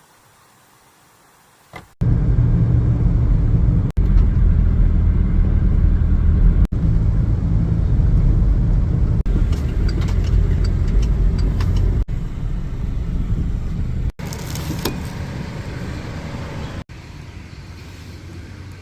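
Motor vehicle running, a loud low rumble that starts about two seconds in and is broken by several abrupt cuts, growing quieter toward the end.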